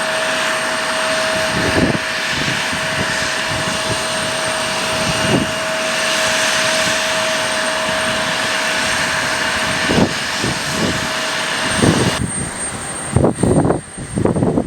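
Aircraft engine running with a steady whine over a loud rush, with wind buffeting the microphone. About twelve seconds in, the engine sound cuts off abruptly, leaving only gusts of wind on the microphone.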